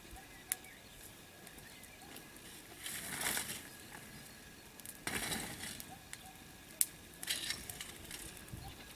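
Outdoor brush bonfire: two sharp crackles and three brief rustling, crunching bursts of dry material.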